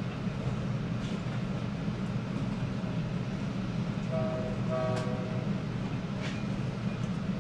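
Metra commuter train cab car rolling along the track, heard from inside: a steady low rumble, with a short higher-pitched tone about four seconds in and a sharp click about a second later.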